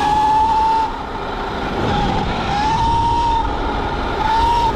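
Electric dirt bike's drivetrain whining under throttle: a Sur-Ron converted to 80 V and 29 kW, with a chain primary drive. The whine rises in pitch and drops away three times as the throttle is opened and closed, over a steady rumble of tyres and wind.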